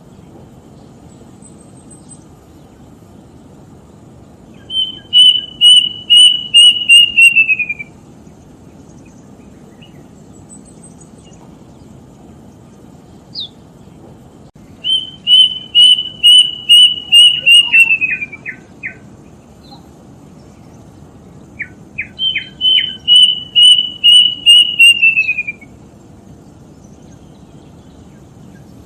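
A bird calling in three bouts, each a quick run of about ten loud whistled notes that drop in pitch at the end, with pauses of several seconds between bouts.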